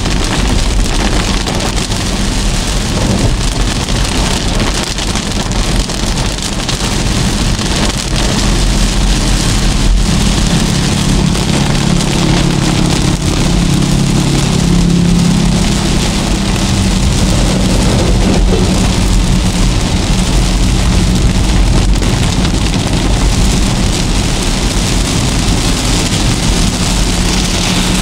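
Heavy rain pelting the roof and windshield of a moving car, heard from inside the cabin. Under it a low steady hum from the car's engine and tyres, stronger from about nine seconds in.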